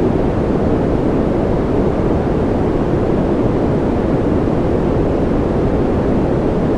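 Continuous white noise for sleep: a steady, deep rushing hiss that never changes, weighted toward the low end rather than bright.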